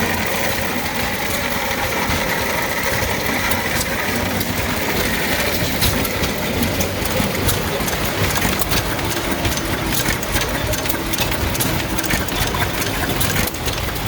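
Hit-and-miss engine running steadily while driving a New Holland corn grinder. From about halfway through, a dense crackle of rapid clicks joins the engine as the corn is ground.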